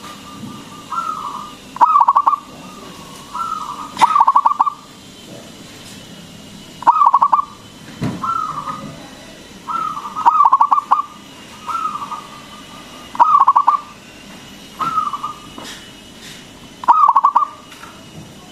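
Zebra dove (perkutut) cooing over and over, each phrase a short rising note followed by a quick rattling trill, about a dozen phrases in all.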